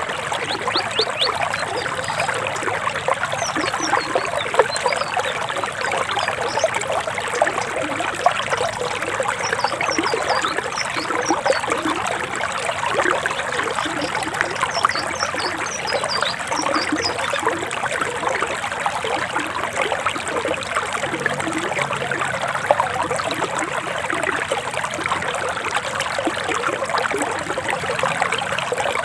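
Forest stream babbling and trickling steadily over rocks, with faint high bird chirps in short runs now and then during the first half.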